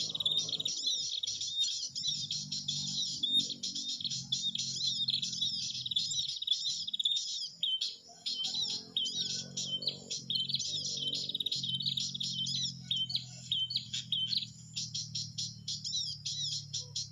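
Dense, rapid high-pitched bird chirping and trilling, calls overlapping almost without pause, over a steady low hum.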